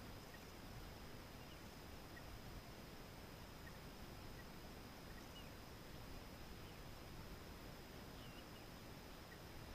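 Near silence: steady faint hiss with a thin high whine, and about ten faint, short high bird peeps scattered through it.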